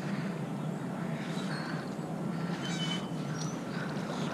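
A boat engine running with a steady drone, with a few faint high chirps over it.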